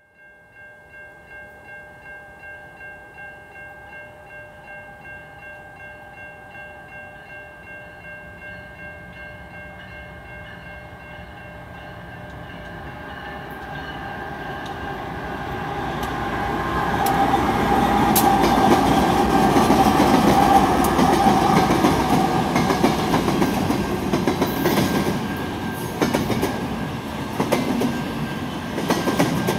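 BNSF freight train led by GE diesel locomotives approaching and passing, its engine and rail noise building to loudest about 18 to 22 seconds in, then the running rumble and clatter of double-stack container cars on the rails. A steady, pulsing ringing tone sounds throughout.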